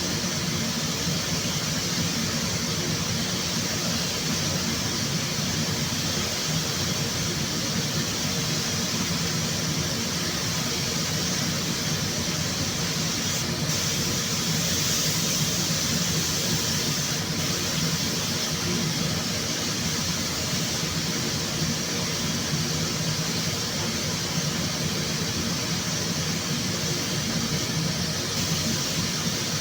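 Steady hiss of compressed air over a low fan hum, as of a paint spray gun working in a spray booth. The hiss eases briefly near the middle.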